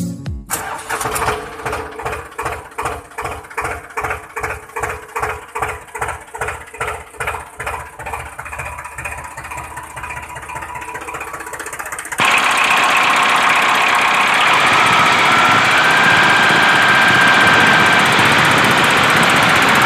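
Small motor of a homemade model tractor cultivator running with a regular knock, about two and a half a second. About twelve seconds in it cuts abruptly to a louder, steady mechanical running sound with a faint whine.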